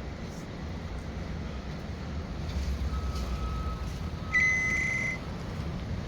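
A truck engine rumbling low and steady. A faint steady tone comes in about three seconds in, then a single loud, high electronic beep sounds for under a second, like a vehicle's warning beeper.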